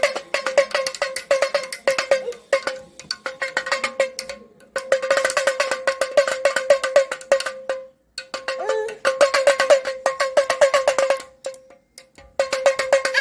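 Damroo (damaru, a two-headed hourglass rattle drum) being twisted back and forth so its cords beat the heads, giving rapid strokes at one steady ringing pitch. The strokes come in runs of a second or a few seconds, broken by short pauses.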